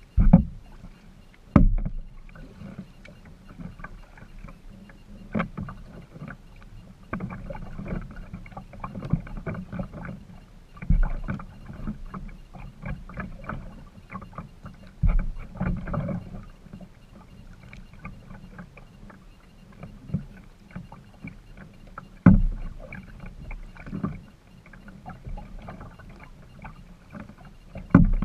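A kayak being paddled: irregular splashing and dripping from the paddle blades, with a few sharp, loud knocks.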